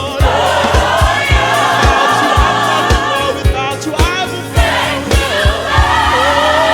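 Gospel worship music: a choir singing over a steady drum beat.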